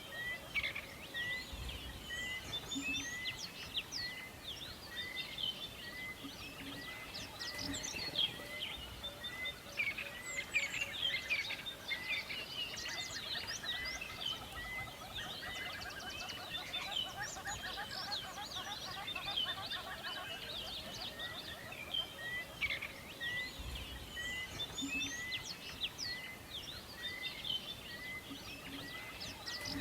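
Many birds chirping and singing together, with one bird repeating the same short note about once a second, over a steady background hiss.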